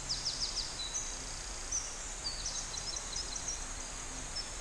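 Small songbirds singing: runs of quick, high chirping notes, some in rapid series of about five a second near the start and scattered notes later, over a faint steady low hum.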